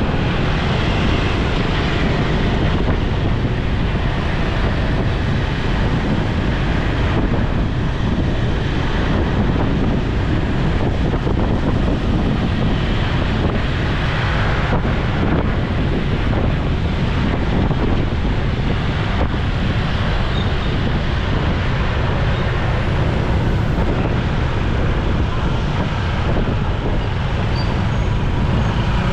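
Wind rushing over the microphone of a moving motorcycle, mixed with road and traffic noise, steady throughout.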